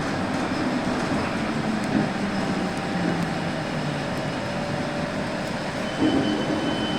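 Santiago Metro NS-74 train running, a steady rumble with a low motor tone that falls in pitch in the middle. About six seconds in it gets louder and a new low tone and a thin high whine come in.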